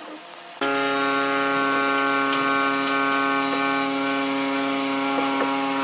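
Electric power tool motor running at a steady, unchanging pitch. It comes in suddenly at full level about half a second in, with a few faint clicks over it.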